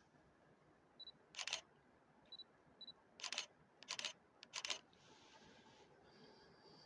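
Camera shutter firing four times, with short high autofocus beeps before the shots.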